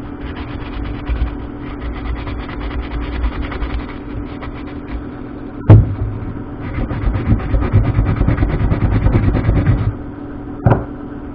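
A chain brush scrubbing a 525 motorcycle drive chain: a rapid scratchy rasping of bristles over the links, pausing briefly about halfway. A sharp knock comes about halfway and another near the end, over a steady low hum.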